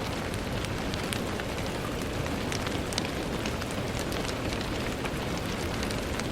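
Steady rain pattering on a window, with many small drop ticks over an even wash of noise.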